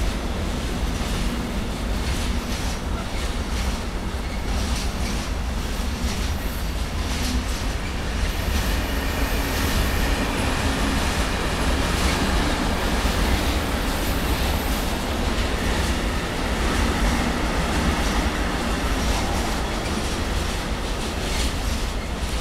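Intermodal freight wagons loaded with swap bodies and trailers rolling past on steel rails: a steady rumble with irregular clicking of wheels over rail joints.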